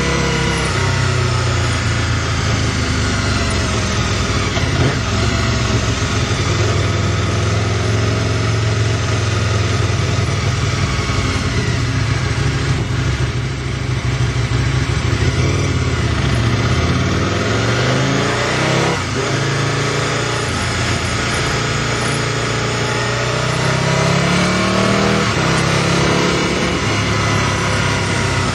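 Aprilia RSV Mille's V-twin engine through an aftermarket Micron exhaust, running under way. The engine note climbs and falls several times as the bike accelerates and eases off.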